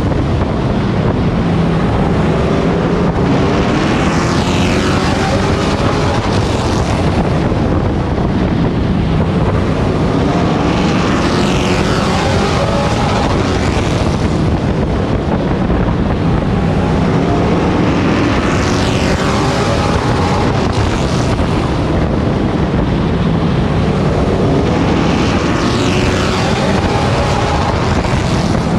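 A Pro Truck race truck's engine heard from on board at racing speed. Its pitch climbs and then drops back in a cycle that repeats about every seven seconds, rising down each straight and falling off into the turns as it laps the short oval. Wind noise on the microphone runs throughout.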